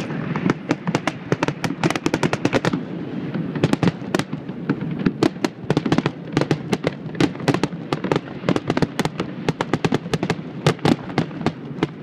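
Fireworks show: a rapid string of sharp bangs, several a second, with a brief lull about three seconds in.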